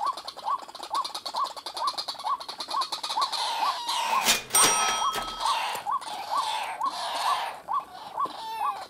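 White-breasted waterhen calling: a short rising note repeated evenly, a little over twice a second, with a louder burst of harsh calls in the middle.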